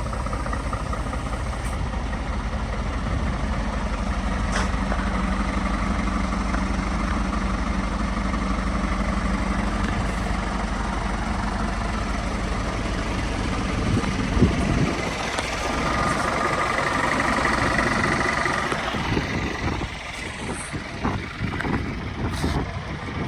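Scania R450 truck's 13-litre six-cylinder diesel idling steadily. A little past the middle there is a single thump, after which the low engine hum drops away, leaving a hiss and scattered knocks.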